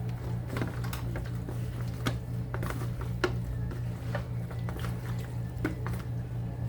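Hands rubbing flour onto raw chicken pieces: scattered soft rustles, squishes and light taps, over a steady low hum.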